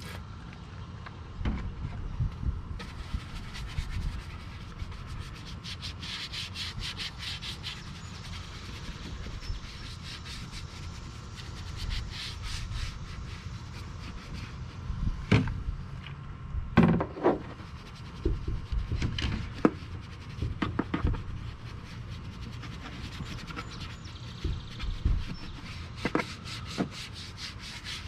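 A detailing brush scrubbing engine-bay surfaces in quick back-and-forth strokes, several strokes a second, in runs with pauses between. A few louder knocks and clunks come about halfway through.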